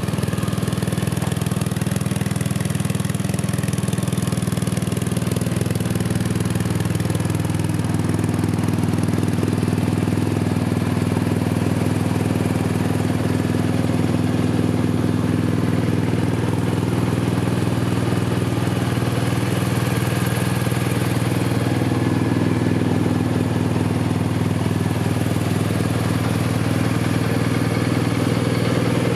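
BMW R1250 RT's 1254 cc boxer twin engine idling steadily at a constant pitch.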